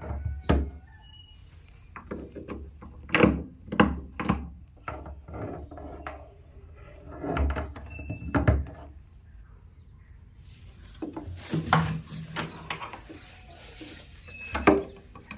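Irregular knocks and taps, with a few short high chirps from a parrot in between.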